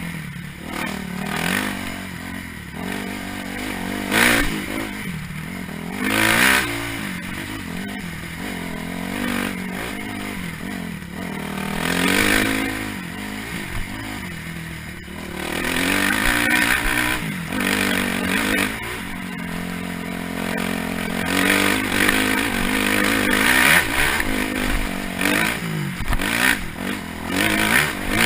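Dirt bike engine revving up and easing off again and again while being ridden over rough trail, with brief louder bursts and clatter from the bike along the way.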